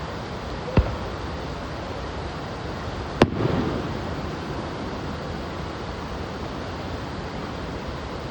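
Two firework bursts: a sharp bang about a second in and a louder one about three seconds in that rumbles on briefly after it. A steady rushing noise runs underneath.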